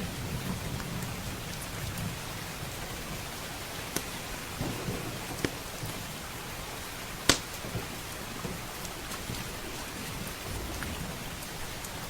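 Steady heavy rain with low rolling thunder, over which a wood fire in a fireplace crackles with a few sharp pops, the loudest a little past halfway.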